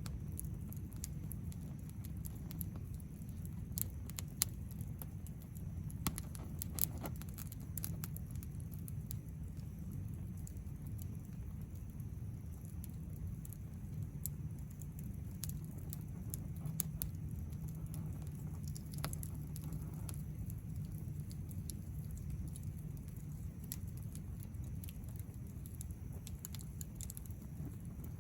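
Wood fire crackling, with scattered sharp pops and a few louder snaps in the first several seconds, over a low steady rumble.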